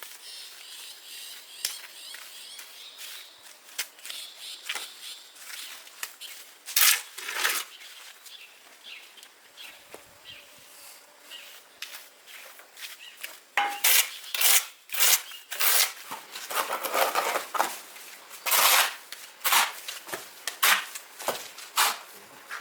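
A run of irregular sharp scrapes and knocks from hand work on hard material, sparse at first and then quick and louder from about halfway through.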